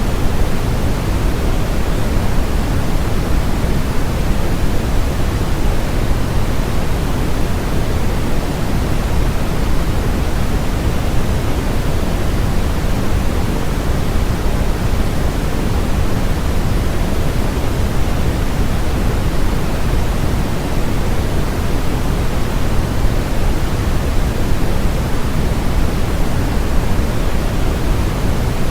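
Steady synthetic noise track, a constant unbroken hiss and rush that is heavier in the low end than in the highs.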